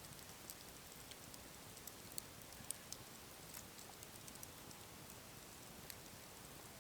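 Near silence with faint, irregular small ticks, one or two a second.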